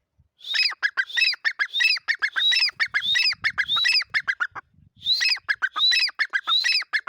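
A francolin (teetar) calling loudly: a rapid run of repeated, rising call phrases, a brief pause about two-thirds of the way through, then a second run.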